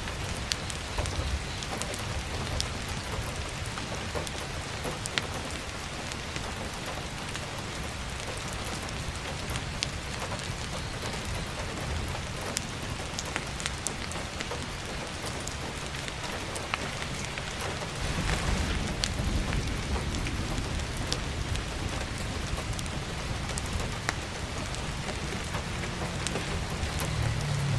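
Steady heavy rain pattering on an attic roof and skylight, with scattered sharp crackles from a wood fire. A low rumble swells about two-thirds of the way through and again near the end.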